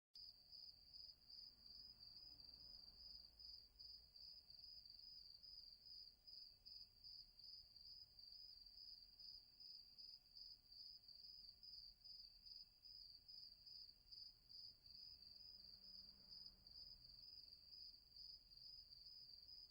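Night woodland ambience dominated by crickets chirping in a steady, fast pulsing trill, with fainter intermittent chirps from another insect behind it.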